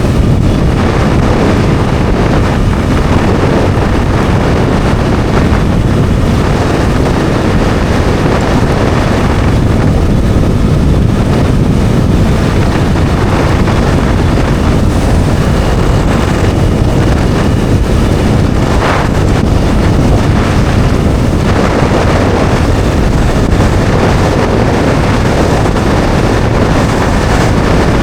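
Bajaj Dominar 400's single-cylinder engine running steadily at cruising speed, largely buried under loud, constant wind noise on the rider's microphone.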